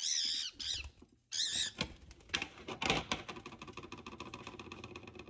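Two short high chirps from a pet bird in the first second and a half. After that, an egg crackles and sizzles in a hot frying pan.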